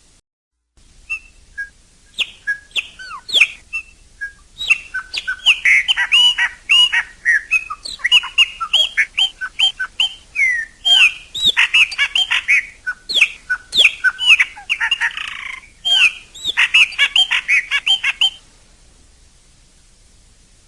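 Chopi blackbird singing: a rapid, varied run of clear whistled and gliding chirps, cutting off abruptly near the end.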